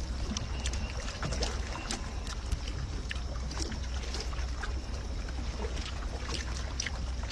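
Close-up eating noises while eating seafood: chewing with many small, irregular clicks, over a steady low hum.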